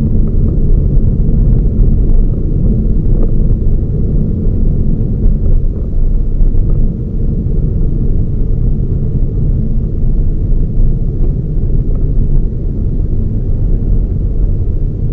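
Toyota Raize small SUV being driven: a steady low rumble of engine and road noise.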